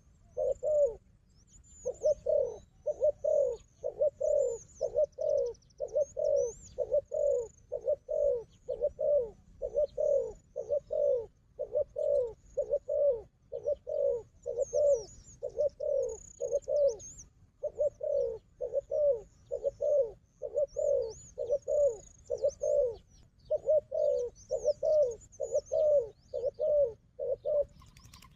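A dove cooing in a rapid, even series of short low coos, about two a second, broken by brief pauses about a second in and just past the middle. Small birds chirp faintly and high in the background.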